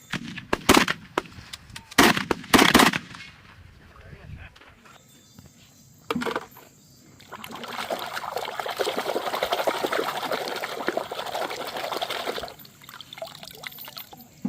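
Water splashing and running over plastic toys as they are washed. A few loud, sharp knocks and splashes come in the first three seconds, then a steady rush of water lasts about five seconds and stops.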